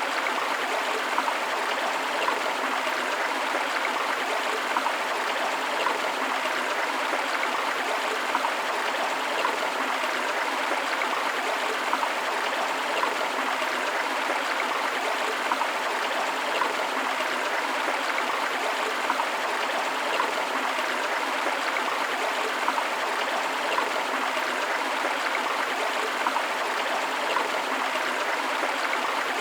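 River water flowing steadily, a continuous rushing sound with small louder splashes about once a second.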